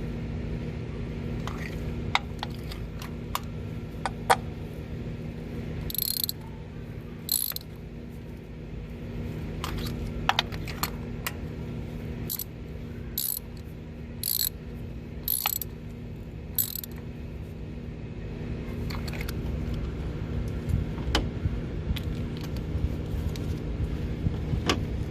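Short runs of socket-ratchet clicking and metal tools clinking against each other, over a steady low hum.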